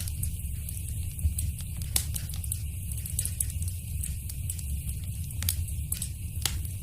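Wood fire crackling in a fireplace: a steady low rumble of the burning fire with scattered sharp pops and crackles.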